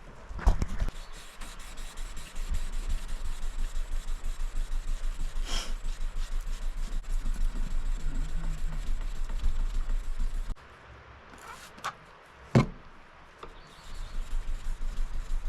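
Hand sanding a Damascus steel knife blade with 2000-grit sandpaper: quick, even back-and-forth rubbing strokes. The strokes stop about ten seconds in, a sharp knock follows, and the strokes start again near the end.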